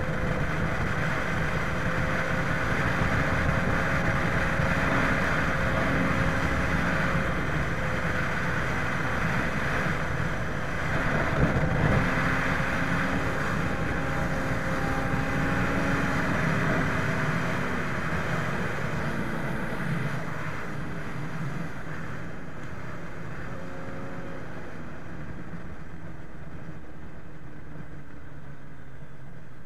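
Aprilia RSV superbike engine running with a steady note over a hiss of noise. Its pitch falls slowly over the last ten seconds or so.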